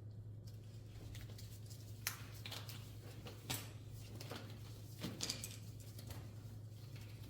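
A few faint clicks and taps, the clearest about two, three and a half and five seconds in, over a steady low hum.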